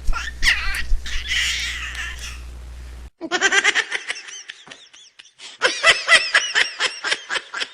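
A baby laughing. First comes a high, breathy laugh over a steady low hum. After an abrupt cut about three seconds in, a different recording plays a baby's rapid, rhythmic laughter, about five pulses a second.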